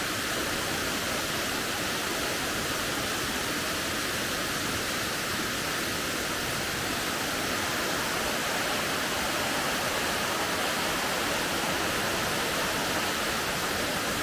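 Waterfall, a steady, even rush of falling water that does not change.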